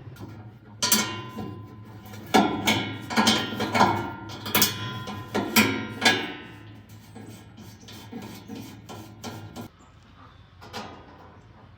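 A run of irregular hammer blows on metal, each strike ringing briefly, heard over a steady low hum that cuts off near the end.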